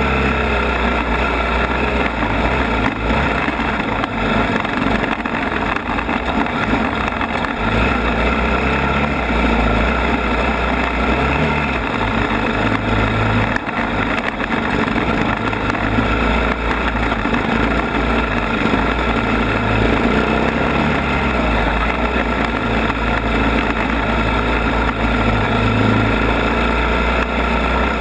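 ATV engine running steadily, its low note shifting now and then.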